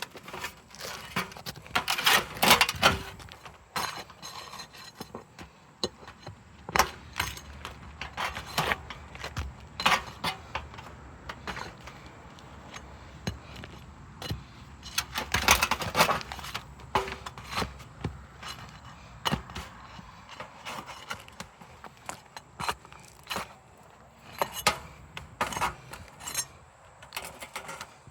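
Asphalt roof shingles being worked loose for a repair, with irregular scraping, rubbing and sharp cracking clicks as the sealed shingles tear free and break. The sounds are densest about two seconds in and again around sixteen seconds.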